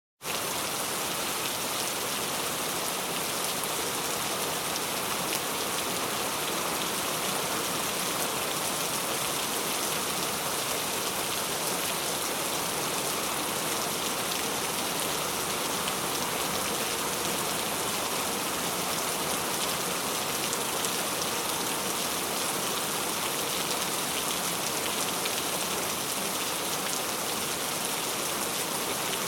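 Heavy rain pouring steadily on hard surfaces, a dense even hiss of drops that starts abruptly.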